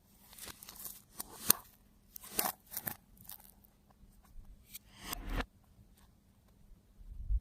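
Slime being worked by hand: irregular short bursts of crackling with a few sharp pops, the loudest about a second and a half in.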